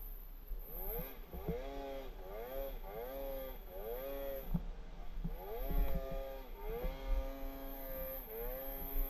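Snowmobile engine revved over and over in deep snow, its pitch shooting up and levelling off about nine times, the last few revs held longer.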